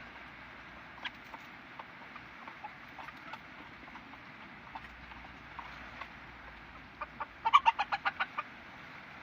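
Silver Sebright bantam chickens clucking softly here and there, then about seven seconds in one bursts into a rapid run of about eight loud clucks.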